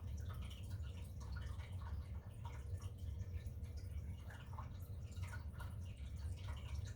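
Faint, scattered small taps and clicks of a paintbrush dabbing alcohol ink and touching its dish, over a steady low hum.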